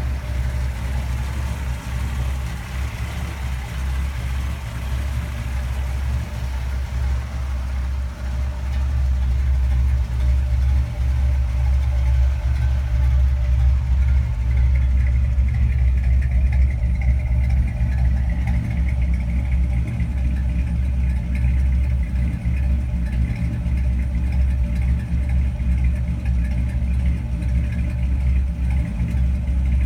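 1962 Chevrolet Impala's 327 small-block V8 running steadily at idle, a deep even hum that gets a little louder from about nine seconds in.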